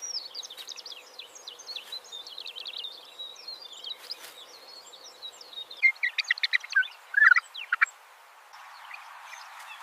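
Small birds chirping and twittering in quick high notes, with a louder rapid run of chirps about six seconds in. Near the end the chirps fade and a steady hiss takes over.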